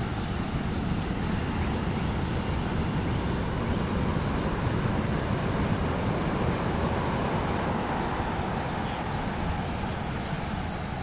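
Surf from large ocean waves breaking and washing up the beach: a steady rushing noise that swells a little about halfway through.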